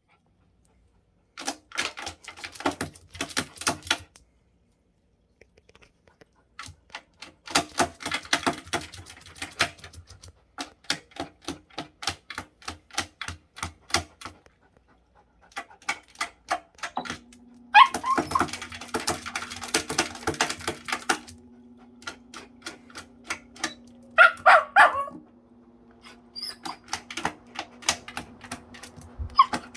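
An excited silver poodle reacting to an electric fan: bursts of rapid sharp clicking with a couple of short yelps. About halfway through, the fan starts and runs with a steady hum.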